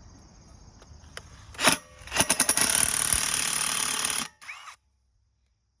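Power drill drilling out a rivet on a pit bike's exhaust muffler cover: a short burst, then about two seconds of steady drilling with a high whine, which cuts off suddenly.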